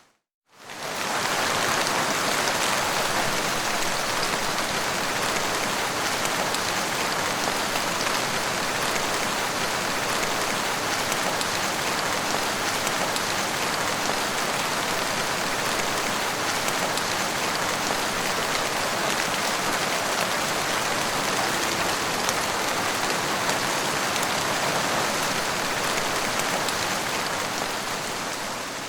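Steady, heavy rain falling, a dense even hiss of drops. It fades in during the first second and starts fading out near the end.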